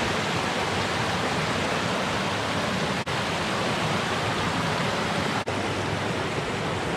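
Steady rushing of a creek's water pouring over rocks and small falls. The sound cuts out for an instant twice.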